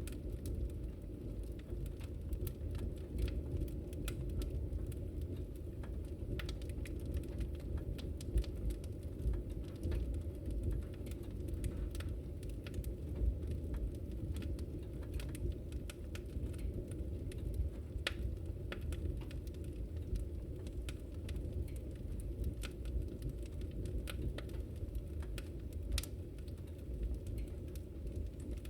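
Wood fire burning in a fireplace: a steady low rumble with frequent, irregular small crackles and pops.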